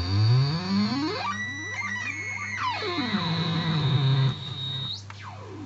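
Home-built DIY oscillator noise box droning, its pitch swept up and back down as the knobs are turned, over a steady high whistle. Near the end a high tone glides sharply downward.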